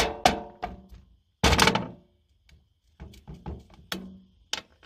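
Loose metal engine parts (valve springs, collets and valves off a diesel cylinder head) clinking and knocking as they are handled and set down. A few ringing clanks open it, a louder clattering clunk comes about a second and a half in, and lighter clicks follow.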